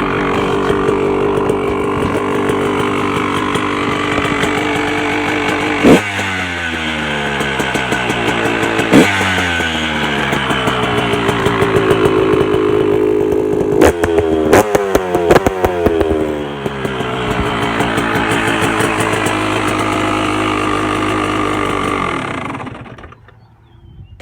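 KTM 144 single-cylinder two-stroke dirt bike engine idling, blipped sharply twice (about 6 and 9 seconds in) with the revs falling back each time. Several quick blips come around the middle, then it settles back to idle before being shut off near the end.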